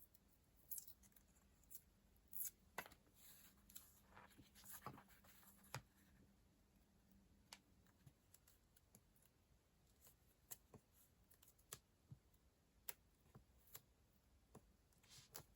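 Faint clicks and short rustles of paper stationery being handled: a planner's pages and stickers, with small taps and scratches scattered irregularly.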